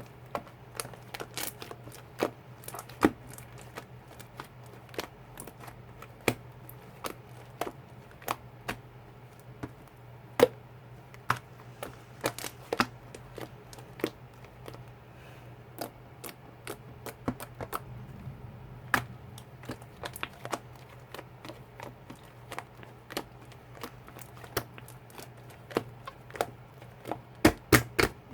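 Slime being squeezed and pressed by hand, making irregular sharp clicks and pops as trapped air bursts, over a low steady hum.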